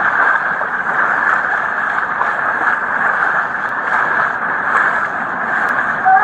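Steady, loud rushing noise of a heavy rainstorm, heard through a police body camera's microphone.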